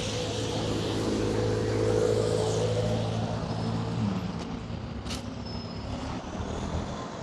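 Street traffic with a motor vehicle's engine running close by: a steady hum that eases off about four seconds in, then a short sharp hiss about a second later.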